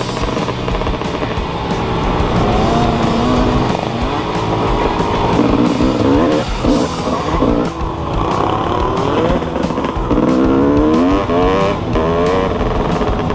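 Small motorcycle engine revving up and down repeatedly, heard from on the bike, over music with a steady beat.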